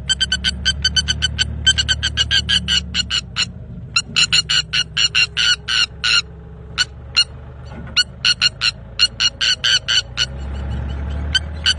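A bird calling in rapid trains of short, sharp pitched notes, several a second, with brief pauses about three and a half and six to eight seconds in, over a low steady hum.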